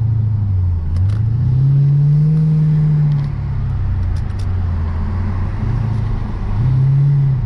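Lexus RC F's 5.0-litre V8 running at low revs while driving slowly, its note rising about a second and a half in, holding, then settling back, and rising briefly again near the end.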